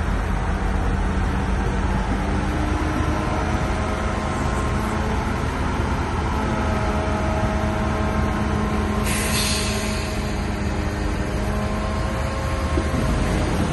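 Shantui bulldozer's diesel engine running steadily under load, with faint whining tones above the engine hum. A short hiss comes about nine seconds in.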